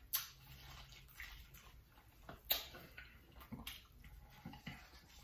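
Quiet, wet eating sounds of someone eating a saucy seafood boil: chewing and mouth smacks, with four or five short sharp clicks spread through.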